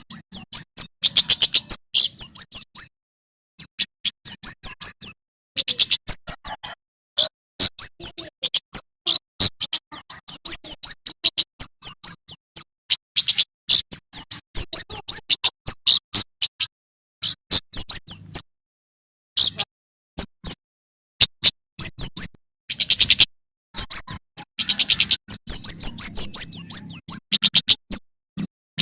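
Male prenjak keres (kemade) singing in rapid bursts of sharp, high, chirping notes, many notes a second, broken by short pauses.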